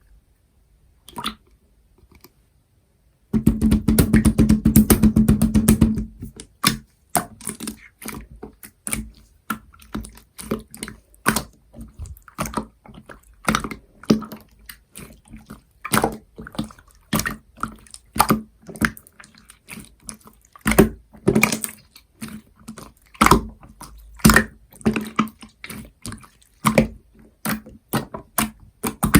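Purple marbled slime being squished and poked by hand, making wet clicking and popping sounds. A fast run of crackles about three seconds in lasts a few seconds, then comes a string of separate pops and squelches.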